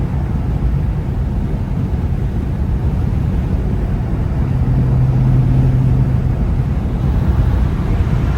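Straight-piped BMW N55 turbocharged inline-six running steadily under way, its exhaust giving a low drone over road noise that grows a little louder about halfway through.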